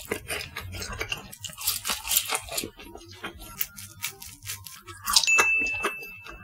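Close-miked chewing of spicy latiao, seasoned wheat-gluten strips: many small, sticky mouth clicks and smacks, with the crinkle of the plastic snack packet as a strip is handled. A steady high tone comes in about five seconds in.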